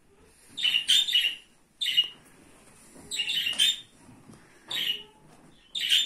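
Bird chirping in about five short, high bursts, each under a second, with brief quiet gaps between them.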